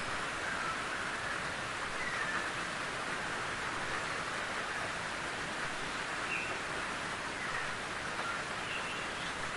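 Steady rain falling in a forest, an even hiss with no let-up. A few faint short bird chirps sound now and then over it.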